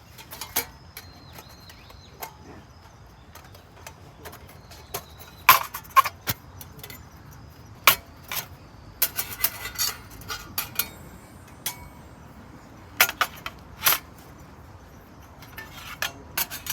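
Metal wood stove parts clinking and knocking as they are handled, in a string of separate sharp knocks, a few of them ringing briefly.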